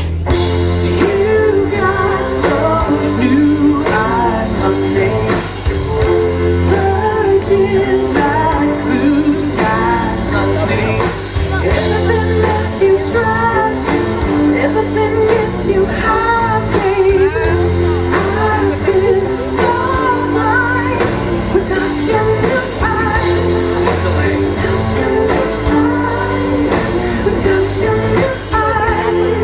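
Live pop-rock band with a lead singer playing a song at a sound check, with guitar, bass and a steady drum beat.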